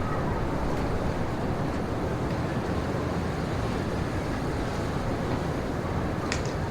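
Steady wind noise with no pitch, strongest in the low end, with two faint clicks about six seconds in.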